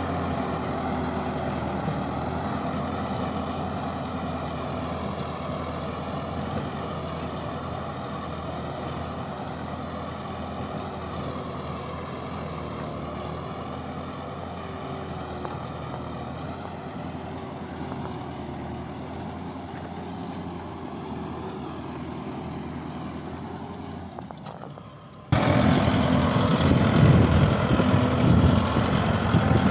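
Kubota tractor's diesel engine running steadily, its sound slowly fading. About 25 seconds in it cuts abruptly to a much louder, closer engine sound, heavy in the low end.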